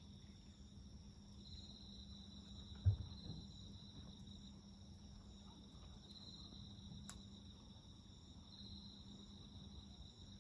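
Insects trilling steadily in a high, continuous chorus that swells every couple of seconds, over the low crackle of a wood fire. A low thump about three seconds in and a sharp pop around seven seconds stand out above it.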